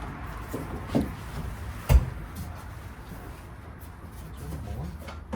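Two knocks, a small one about a second in and a sharp, much louder one about two seconds in, from work on a car's interior door panel.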